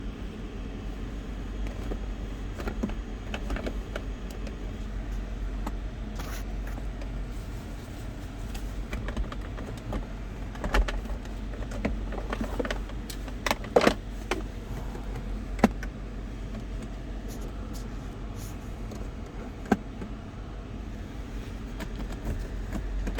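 Low steady rumble of a 2004 Lexus GX 470's V8 idling, heard inside the cabin, with scattered clicks and knocks from interior controls being handled. The sharpest clicks come in a cluster about halfway through.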